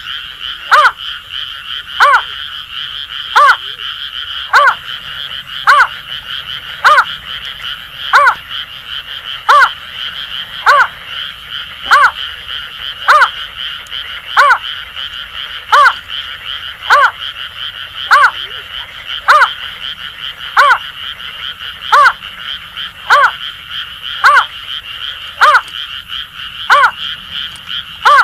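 Greater painted-snipe giving a long, even series of short hooting notes, about one a second, over a continuous chorus of Asian grass frogs calling.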